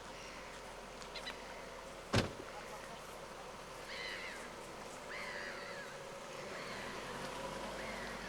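Birds calling in a flock, short harsh calls that come in a loose series from about four seconds in. A single sharp knock about two seconds in is the loudest thing.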